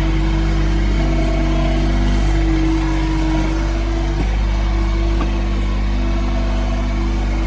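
Yanmar B22 mini excavator's diesel engine running steadily under load, its pitch raised by double-speed playback. Higher hydraulic tones shift and change a few times as the controls are worked.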